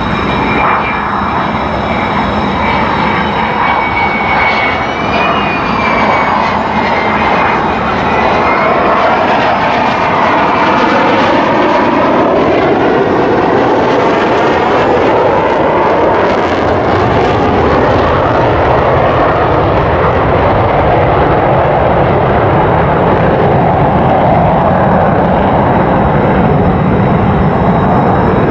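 F-35A fighter jet's turbofan engine running loud and continuous. A high whine with several steady tones sounds at first, then gives way to a broader, deeper roar about two-thirds of the way through.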